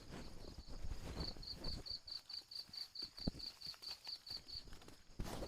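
An insect giving a run of short high chirps at a steady pitch, about five a second for roughly three and a half seconds, over faint rustling.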